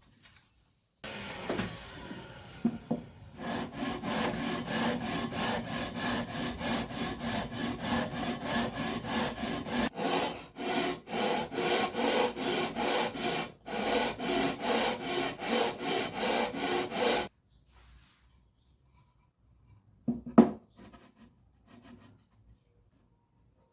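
Wood being cut with a hand saw in rapid, even back-and-forth strokes, with a short pause partway through before the sawing stops. A single sharp knock follows near the end.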